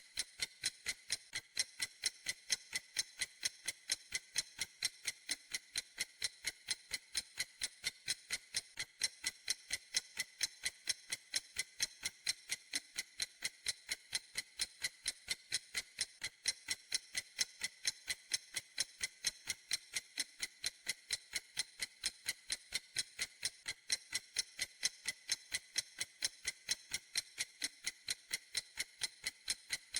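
A clock ticking steadily: sharp, crisp ticks at an even quick pace, roughly three a second, never varying.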